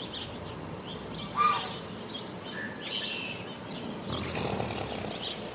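Outdoor nature ambience: short bird chirps over a steady background hiss, with one louder sound about a second and a half in and the hiss growing stronger after about four seconds.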